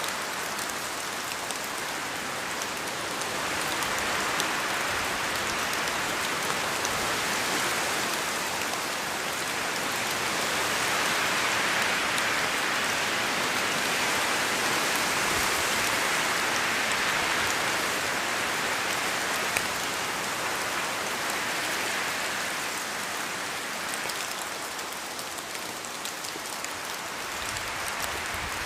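Steady rain falling in a forest, a dense hiss with scattered drops pattering off leaves, swelling gently and easing again near the end.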